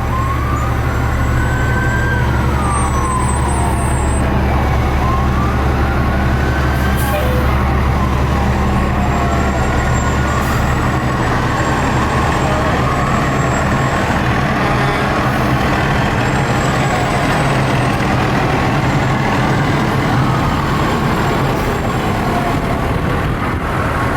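Fire truck sirens in a slow wail, rising and falling every few seconds, over the steady rumble of a fire engine's diesel, which fades after about ten seconds.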